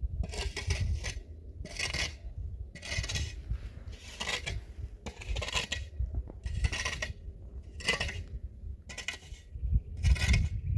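Rhythmic scraping strokes of a hand digging tool biting into earth and stones, about one stroke a second, nine in all, over a low rumble.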